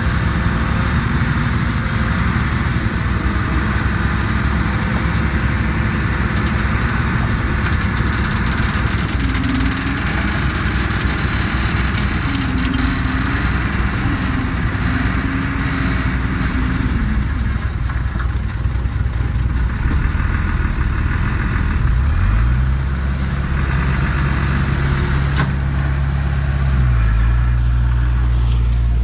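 Diesel engines of heavy earthmoving machinery running steadily. About two-thirds of the way through, one engine revs up to a higher steady pitch and holds it, dipping briefly near the end.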